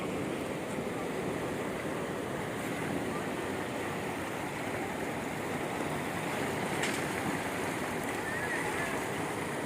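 Floodwater current rushing, a steady even noise, with a single brief click about seven seconds in.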